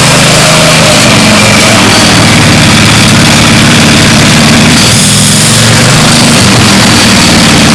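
Tractor engine running loudly and steadily, its pitch shifting slightly now and then.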